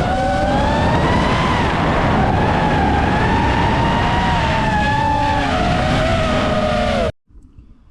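Motors and 7-inch propellers of an FPV quadcopter in flight: a loud whine of several tones together that rises and falls as the throttle changes. It cuts off suddenly about seven seconds in.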